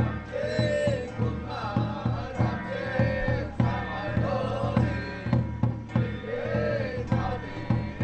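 Taiwanese temple ritual music: a wavering melody over steady drumbeats, several a second.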